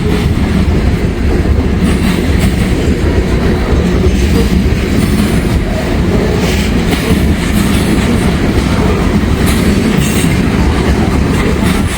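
Freight train cars rolling past close by, wheels clattering steadily over the rail joints, with strong gusty wind buffeting the microphone.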